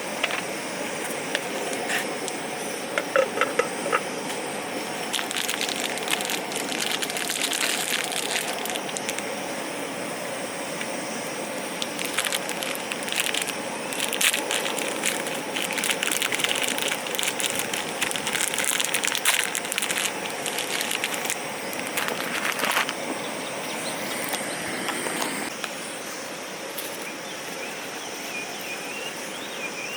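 Crackling and irregular popping, most likely a campfire burning, over a steady hiss. A few louder cracks come about three to four seconds in, and the sound eases off a little near the end.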